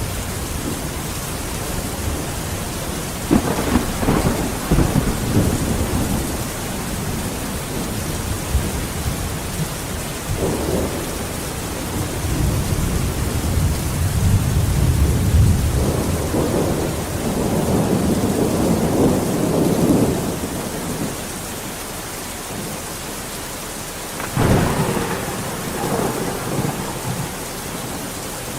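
Steady rain with rolling thunder: a constant hiss of rainfall under several low rumbles of thunder that swell and fade, the longest in the middle and another starting near the end.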